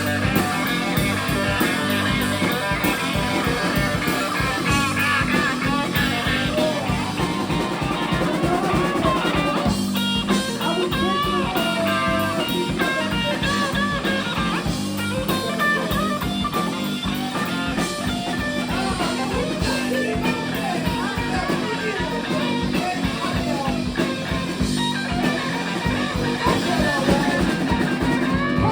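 Live rock band playing a song, with electric guitar out front over bass and drums, loud and steady throughout.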